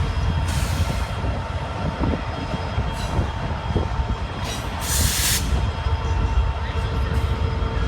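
Freight train cars rolling past: a steady low rumble of wheels on rail with a thin steady squeal tone. There are two short bursts of hiss, one right at the start and a louder one about five seconds in.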